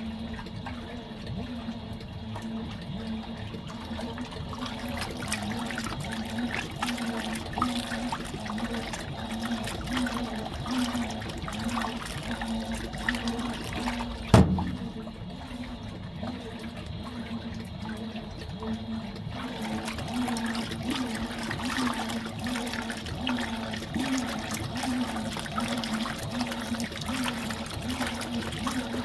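Fisher & Paykel MW059 top-loading washing machine in its wash cycle: a rhythmic motor hum with water sloshing in the tub, and one sharp knock about halfway through.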